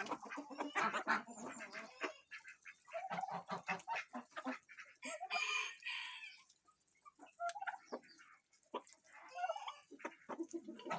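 Farmyard chickens clucking in short calls, with a rooster crowing once for about a second around the middle.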